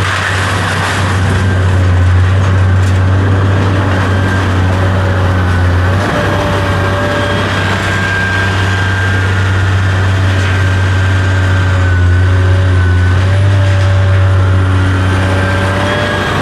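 Heavy machinery's engine running steadily under a continuous low drone, with a thin whine above it that wavers slightly in pitch.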